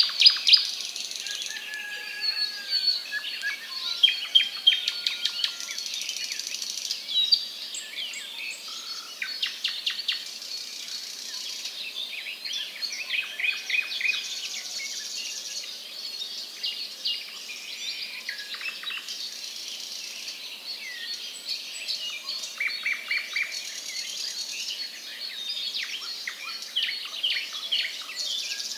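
Many small birds chirping and calling, with quick runs of short chirps now and then, over a steady outdoor hiss.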